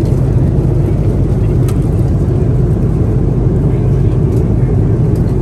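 Steady low rumble of an Airbus A330-200 cabin at cruise altitude: engine and airflow noise, with a couple of faint clicks in the cabin.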